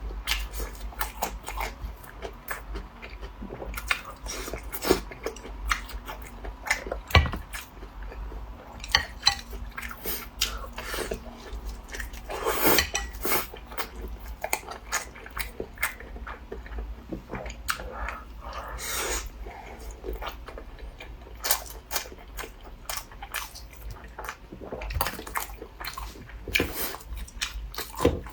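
Close-up eating sounds: a person biting and chewing food, with many irregular sharp mouth clicks.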